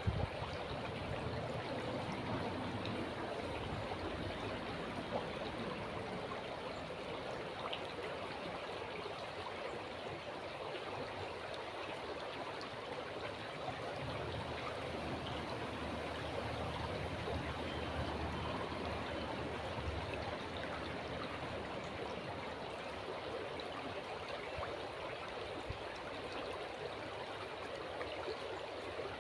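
River water flowing steadily, a continuous rushing and burbling, with a low rumble coming and going beneath it and a brief bump at the very start.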